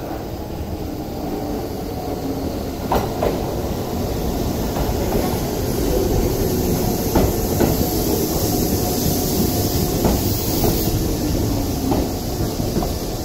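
Keisei electric commuter train pulling into a station platform and slowing, its rumble growing louder as it comes close. Its wheels click sharply over rail joints every few seconds, and a faint whine sinks slightly in pitch in the second half.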